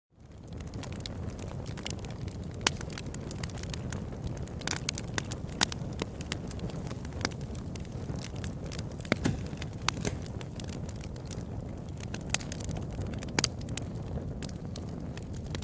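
Wood fire burning in a fireplace: a steady low rush of flames with irregular sharp crackles and pops, a few of them louder than the rest.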